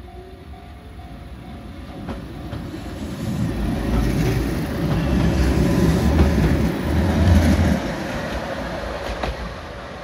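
Keihan 600 series two-car electric train passing close by. Its rumble builds as it approaches, is loudest for a few seconds as the cars go past, and drops off about eight seconds in as it pulls away, with a few clicks of the wheels over rail joints.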